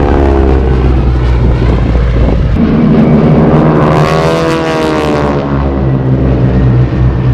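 Propeller-driven piston-engine warbird flying past, loud, its engine note sliding down in pitch as it goes by. A second swell follows a few seconds in, rising and then falling in pitch as an aircraft passes again.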